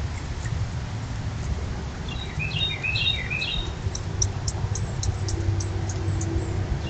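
A songbird's quick twittering phrase of chirps about two seconds in, then a run of short, high ticks at about four a second, over a steady low rumble.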